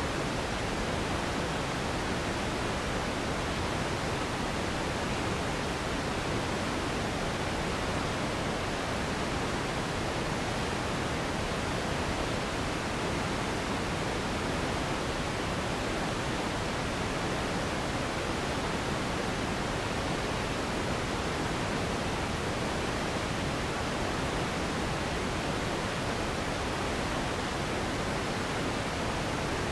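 Steady pink-noise hiss, an even rushing sound with no change in level or pitch throughout.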